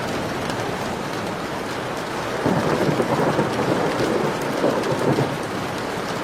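Heavy rain falling steadily, with a roll of thunder that comes in about two and a half seconds in, crackles and rumbles for about three seconds, then fades back into the rain.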